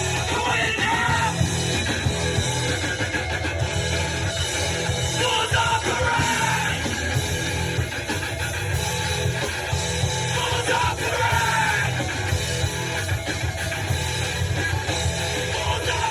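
A rock band playing loud, heavy guitar-driven music, with a voice singing over it.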